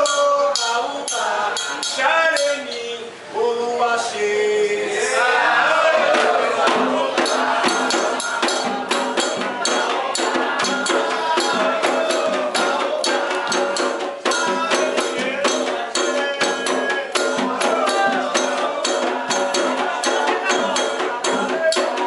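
Group singing a Candomblé chant, joined from about six seconds in by fast, driving percussion with rattling, shaker-like strokes that carries on under the singing.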